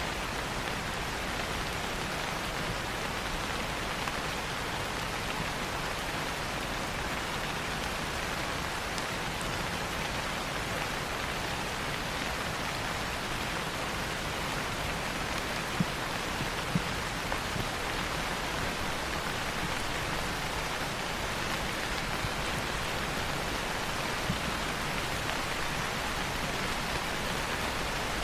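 Steady rain falling, an even hiss with no let-up, with a few brief clicks a little past the middle and one more near the end.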